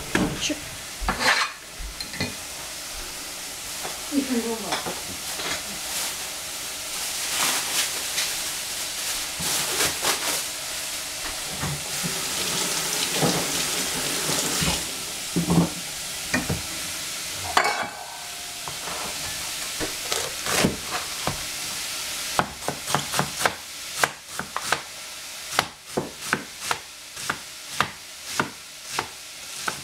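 Celery sizzling as it fries in a stainless steel pot, with scattered knocks. From about two-thirds of the way through, a Chinese cleaver chops cabbage on a plastic cutting board in quick strokes.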